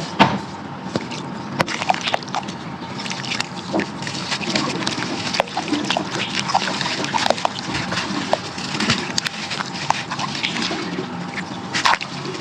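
Crunchy brown sand-clay being crumbled in a clay pot, partly wetted: a dense run of irregular crackles and sharp clicks with some wet, sloshing grit.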